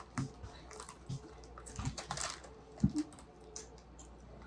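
Someone chewing potato chips: irregular crisp crunches and clicks in the mouth.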